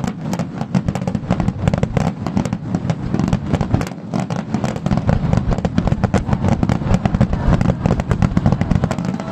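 Aerial fireworks barrage: shells bursting in rapid, overlapping succession, many reports a second over a continuous rumble.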